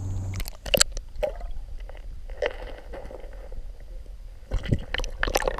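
Water splashing and sloshing in short irregular bursts, with a cluster of splashes near the end.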